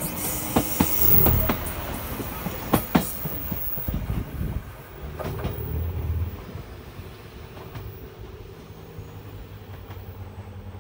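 JR Kyushu YC1 series diesel-hybrid railcar passing close by and pulling away. The wheels give sharp clacks over the rail joints in the first few seconds and again around five seconds in, then its rumble and a low hum fade as it recedes.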